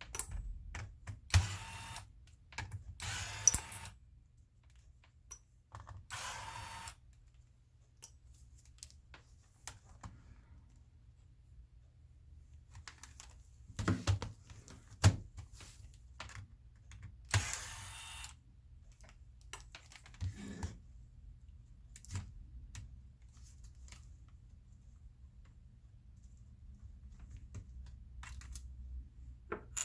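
Hands working on a laptop's plastic case and parts with small tools: scattered clicks and taps, and several short scraping or rustling passes about a second long.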